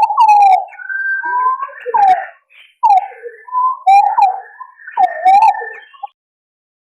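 Green pigeons (punai) calling in a hunting lure recording. Several wavering, whistled notes overlap in phrases, with short gaps between them.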